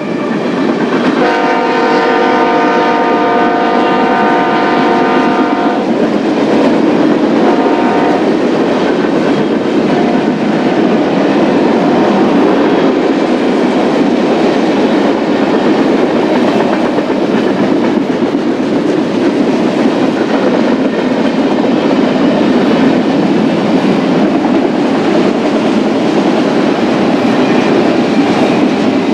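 Freight locomotive horn sounding one long blast about a second in and a short one around seven seconds in, followed by the train rolling past with a steady rumble of wheels on the rails and clickety-clack over the rail joints.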